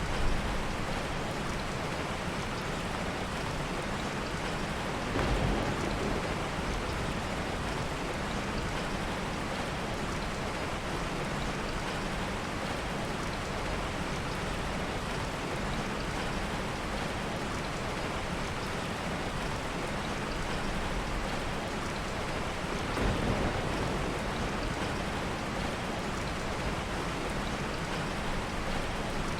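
Heavy rain falling steadily as a dense, even hiss, swelling briefly louder twice.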